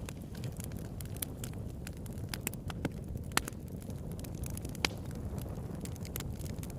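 Campfire burning: a steady low rumble of the flames with irregular sharp crackles and pops from the burning wood, two of them louder, in the middle of the stretch.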